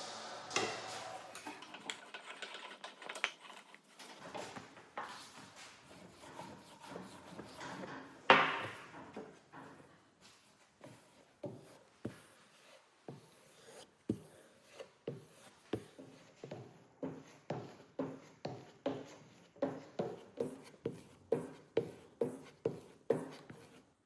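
A run of short rubbing or tapping strokes from hand work on a piece. The strokes are irregular at first, with one sharper stroke about eight seconds in. They settle into a steady rhythm of a little over one a second near the end.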